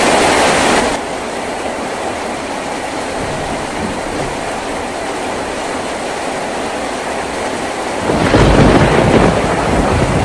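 Heavy rain drumming on a tin roof, dropping abruptly to a lighter, steady patter about a second in. Near the end a deep rumble of thunder swells up over the rain.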